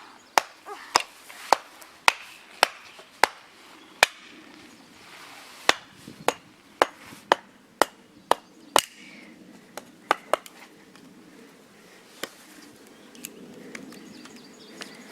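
Wood being chopped into kindling sticks: a run of sharp, evenly spaced strikes about two a second, a short pause, a second run, then a few scattered blows.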